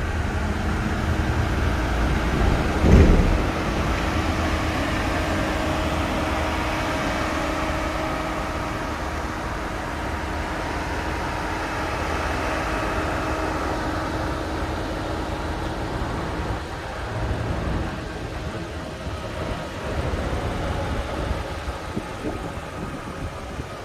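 BMW M850i Gran Coupe's twin-turbo V8 running steadily at idle, with one short louder burst about three seconds in.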